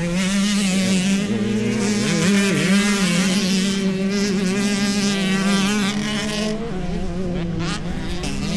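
Dirt bike engines running and revving on a motocross track, several pitches wavering up and down together.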